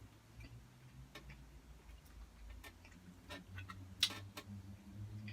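Scattered light clicks and taps of cutlery against a plate while eating, with one sharper click about four seconds in. A low steady hum comes in near the end.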